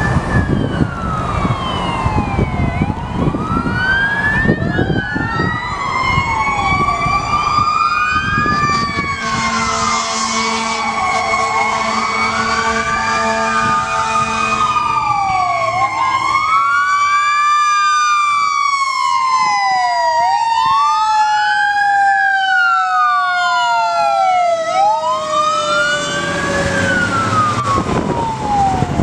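Fire apparatus sirens sounding together: one wail rises and falls about every two to three seconds, while a slower siren climbs high and then slides down over several seconds near the end. Heavy vehicle rumble runs underneath.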